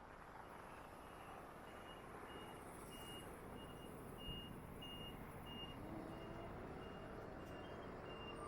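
A faint high electronic beep repeating about twice a second, over a steady low background rumble.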